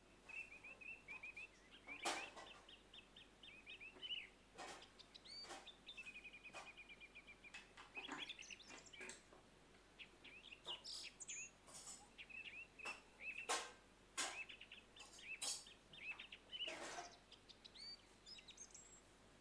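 Small birds chirping in quick runs of short notes, with scattered sharp knocks and clicks throughout, the loudest about two seconds in and again two-thirds of the way through.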